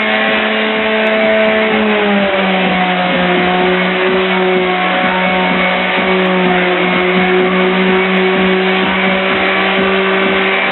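Electric drywall sander's motor running steadily with a loud, even whine. Its pitch dips slightly about two seconds in, then holds.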